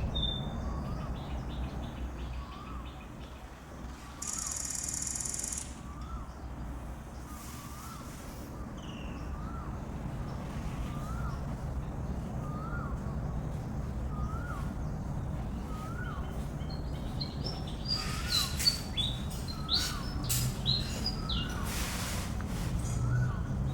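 Birds calling: a short rising call repeated about every second and a half, with scattered higher chirps. Near the end comes a busier run of sharp clicks and chirps, all over a steady low rumble.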